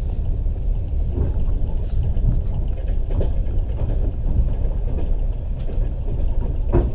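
Steady low rumble of a moving passenger train carriage, its wheels running on the rails, heard from inside the carriage.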